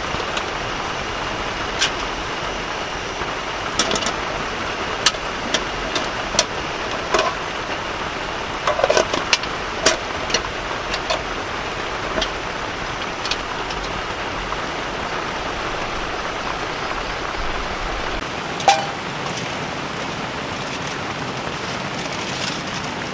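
Heavy typhoon rain falling steadily as a continuous hiss, with scattered sharp taps and knocks, most of them between about four and ten seconds in.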